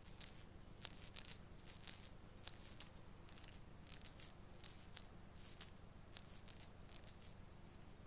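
A shaker rattle shaken in short strokes, about two a second and often in pairs, as quiet background music.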